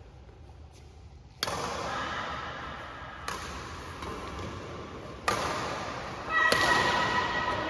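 Badminton rally: four sharp racket strikes on the shuttlecock, roughly two seconds apart, each followed by a lingering echo, with high squeaks after the last one.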